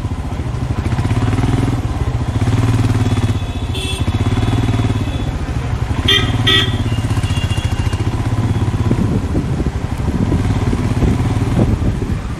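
Royal Enfield Himalayan's single-cylinder engine running steadily under way, heard from the moving bike. A vehicle horn gives a short beep about four seconds in and two quick beeps about six seconds in.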